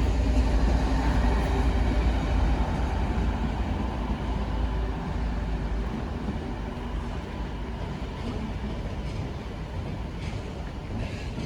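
A pair of coupled DSB IC3 (Litra MF) diesel multiple units running along the platform. Their low rumble is loudest at first and fades steadily as the train moves off.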